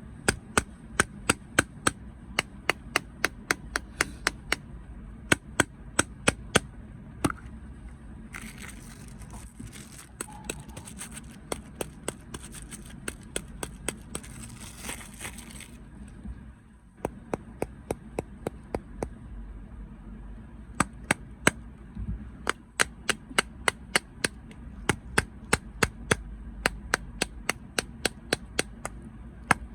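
Crunchy snacks cracking sharply in a quick, regular series of about two to three cracks a second. About eight seconds in, the cracks give way to several seconds of crinkling, rustling noise, then resume.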